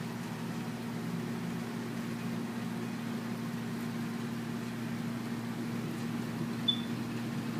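A steady, low mechanical hum over a faint noisy rumble, with one brief high chirp near the end.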